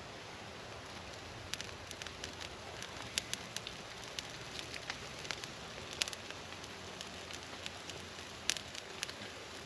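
Small campfire of fatwood and wet cedar crackling, with sharp pops scattered irregularly from about a second and a half in, over a steady hiss.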